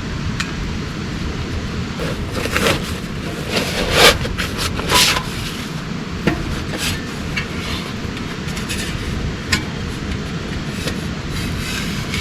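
Steady heavy rain, with a run of sharp knocks and clinks from about two to five seconds in and one more near the end.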